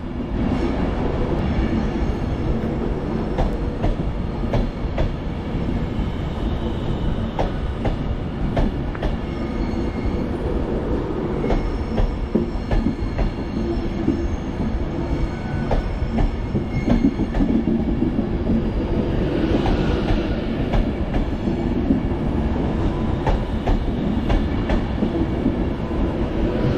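Avanti West Coast Class 390 Pendolino electric train moving along the platform with a steady rumble of wheels on rail, and many clicks as the wheels cross rail joints and points.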